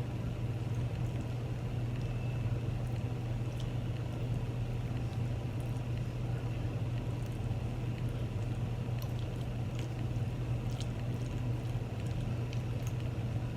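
Eating chili cheese fries close to the microphone: faint, scattered wet clicks and squishes over a steady low hum.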